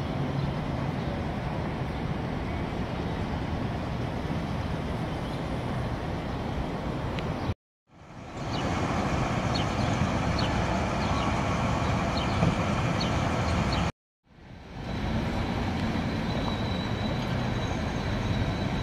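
Steady road traffic noise in three stretches, broken twice by a sudden cut to silence and a quick fade back in.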